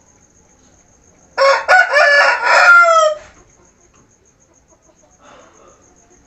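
A rooster crowing once, about a second and a half in, for under two seconds, its pitch falling at the end of the crow.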